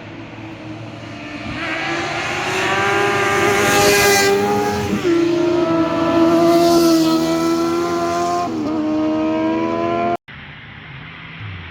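A car driving past under throttle. Its engine note rises as it approaches and is loudest in the middle, with two clear changes of pitch along the way, before the sound cuts off suddenly near the end.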